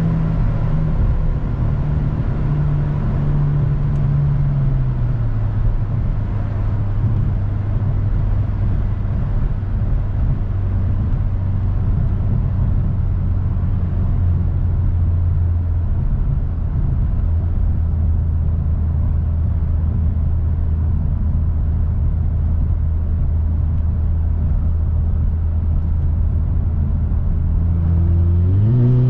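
Mercedes-AMG C43 (W206) 2.0-litre turbocharged four-cylinder running through an Fi exhaust with a catless Redstar downpipe, over steady road noise while driving. The engine note falls over the first few seconds and then holds a steady low drone at cruise. Near the end the revs climb quickly as the car accelerates.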